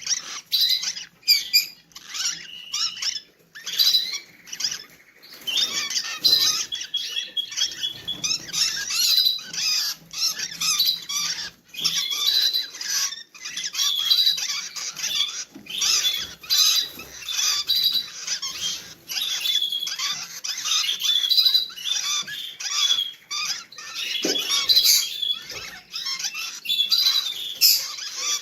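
Rosy-faced lovebirds chattering: a dense, continuous run of short, high-pitched chirps and squeaks with brief gaps.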